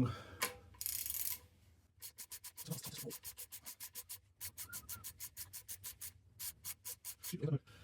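Small plastic bag being handled as bolts are bagged: a short rustle, then a long run of quick crinkly clicks, several a second, broken by brief pauses.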